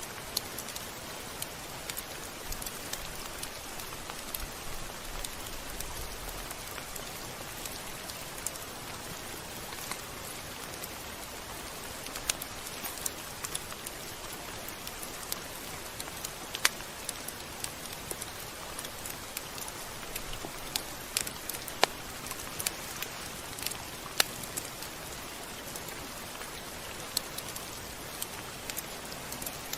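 Steady rain: an even hiss of rainfall with irregular sharp drip-ticks scattered through it.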